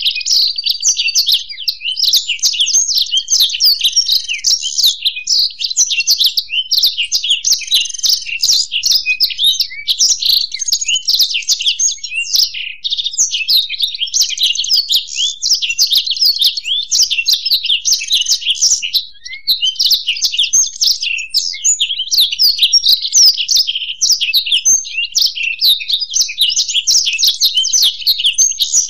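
Black-throated canary and European goldfinch singing together: a dense, unbroken stream of rapid high twittering, trills and chirps, with a brief lull about two-thirds of the way through.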